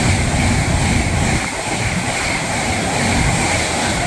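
Avanti West Coast Class 390 Pendolino electric train passing through the station at speed: a loud, steady rush of wheels on rail and air, with a faint high whine.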